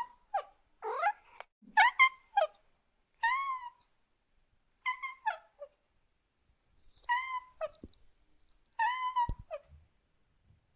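Domestic cat meowing over and over: about six short meows with pauses between them, some rising or falling in pitch.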